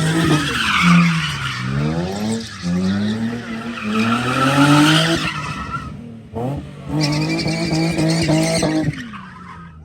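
A car engine held at high revs, its pitch falling and rising, with tyres squealing loudly. The engine drops off briefly about six seconds in and falls away near the end.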